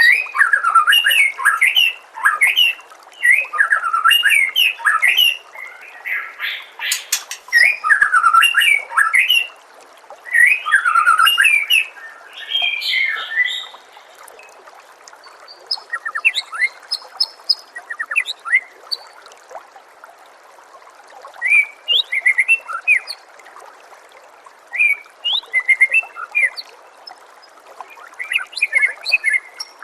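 White-rumped shama (murai batu) singing: dense, rapid runs of varied whistled phrases for the first dozen seconds or so, then shorter, scattered chirps and whistles. A steady trickle of running water is heard beneath.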